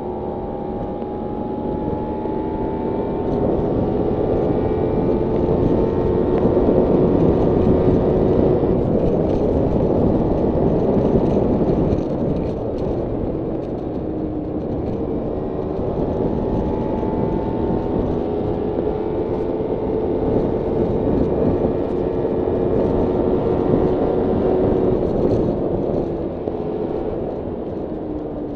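Kawasaki Ninja 300 parallel-twin engine running while the bike is ridden, its pitch rising and falling gently with the throttle, under rushing wind noise. The rushing grows louder from a few seconds in until about halfway, and again later on.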